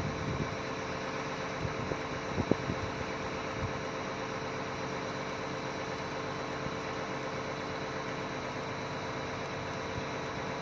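Hyundai crawler excavator's diesel engine running with a steady hum. A few short knocks come in the first few seconds, the sharpest about two and a half seconds in.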